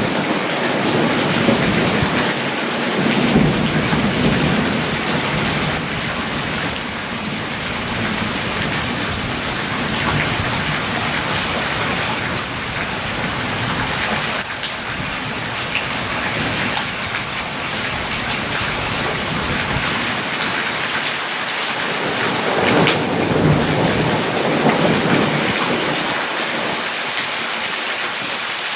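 Heavy thunderstorm rain pouring steadily, with low thunder rumbling and fading in and out underneath.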